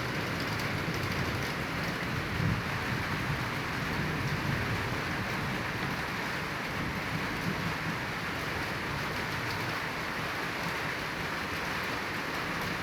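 Heavy rain falling steadily, a dense even hiss, with a low rumble that dies away over the first few seconds.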